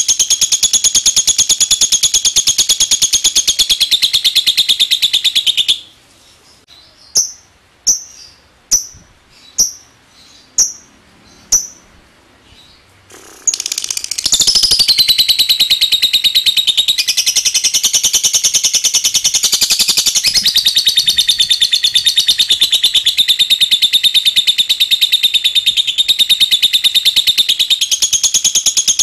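Lovebird singing its long 'ngekek' song: a fast, high, unbroken chatter. About six seconds in it stops, and about seven short sharp chirps follow, roughly one a second. Near the middle the long rapid chatter starts again and keeps going.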